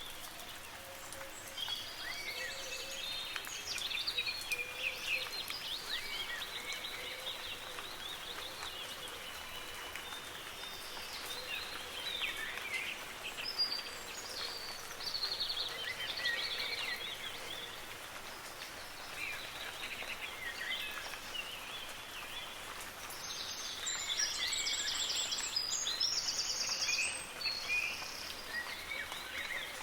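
Several songbirds singing and calling in overlapping phrases over the steady hiss of soft rain. A louder, higher run of song comes about three-quarters of the way through.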